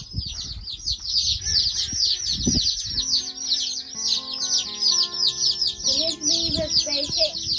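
A flock of red broiler chicks peeping constantly, many short, high, downward chirps overlapping several times a second. Soft background music comes in under the peeping about halfway through.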